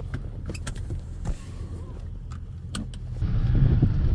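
GMC pickup's engine idling in four-low, heard from inside the cab, with a few short clicks. About three seconds in, the engine gets louder as the truck accelerates away.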